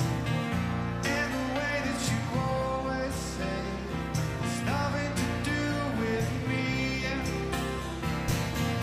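Live rock band playing a song in full flow, with a low steady bass and recurring drum strikes.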